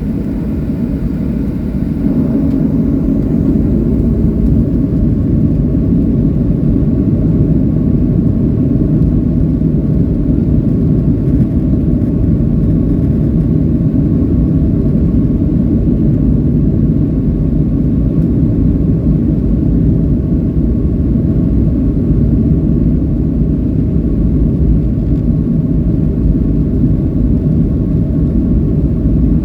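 Boeing 737-800's CFM56-7B jet engines running with a steady low rumble, building over the first few seconds and then holding level.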